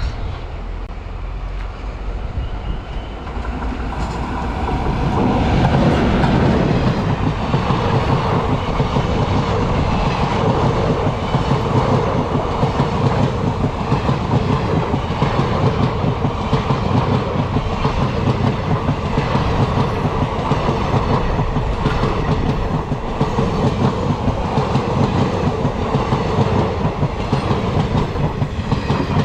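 Express passenger train running past on the track, its wheels clattering rhythmically over the rail joints. The sound swells over the first six seconds or so as the coaches come close, then holds steady and loud as they keep rolling by.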